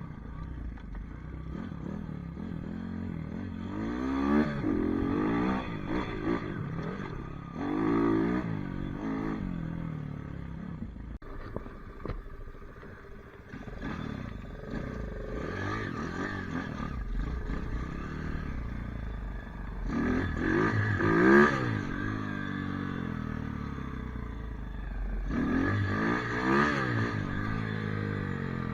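Small pit bike engine revving up and down again and again as the bike is ridden, its pitch rising and falling many times.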